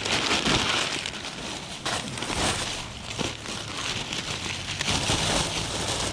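Plastic packaging rustling and crinkling as it is handled, with scattered small clicks.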